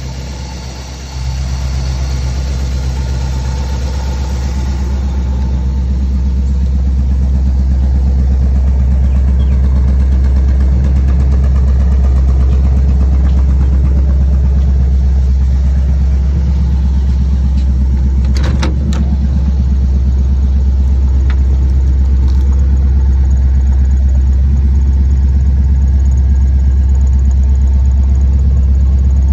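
The engine of a 1936 Ford Coupe rat rod idling steadily with a deep, even exhaust note. It grows slightly louder about a second in, and there is one brief click about two-thirds of the way through.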